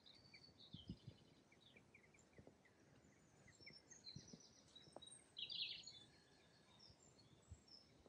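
Faint birdsong: small birds chirping and trilling over a quiet outdoor background, with a louder burst of chirps about five and a half seconds in. A few soft low thumps are scattered through it.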